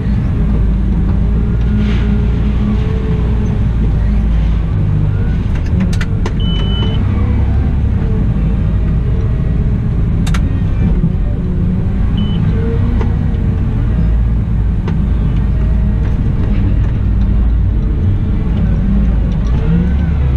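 Cat 972M XE wheel loader's diesel engine running under work, its pitch rising and falling as it is worked. Two sharp clicks come about 6 and 10 seconds in, and a short high beep sounds around 6 seconds and again near 12 seconds.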